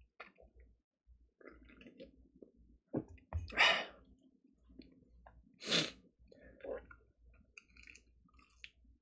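Close mouth sounds of a man eating fried chicken: soft chewing and small wet clicks. Two short, loud bursts of breath come about three and a half and six seconds in.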